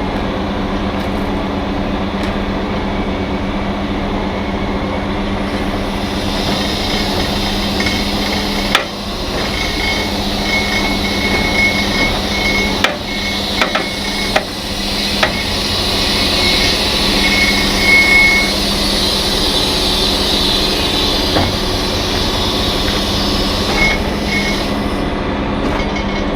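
Heavy diesel truck engine running steadily. From about six seconds in a hiss joins it, and a few sharp metal knocks and clunks come in the middle.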